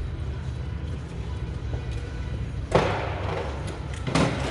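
Two hard metallic clunks about a second and a half apart, the first the loudest, as parts in the engine bay are knocked and shifted loose, over a steady low hum.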